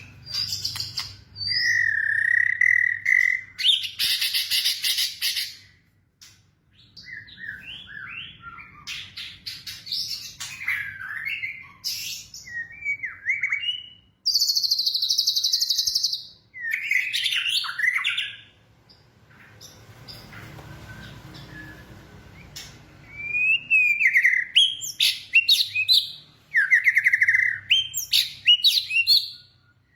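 Birds chirping and calling: bursts of varied high chirps, trills and squawks with short pauses between, and a quieter stretch of faint hiss about two-thirds of the way through.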